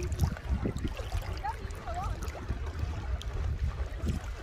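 Wind rumbling on the microphone over the wash of sea waves, steady throughout, with a couple of faint short voice-like calls about a second and a half in.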